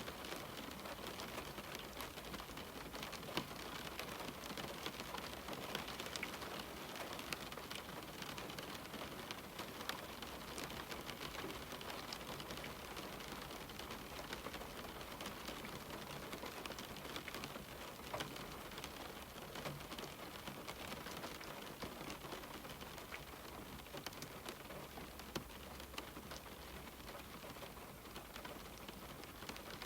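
Steady rain falling on a window pane, a constant hiss with many individual drops tapping sharply against the glass.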